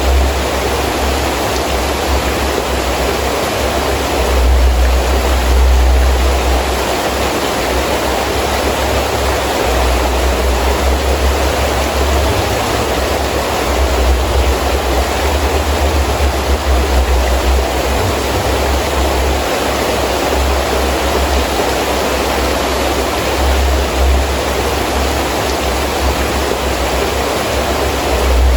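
Heavy rain falling steadily, with low gusts of wind swelling and dropping every few seconds.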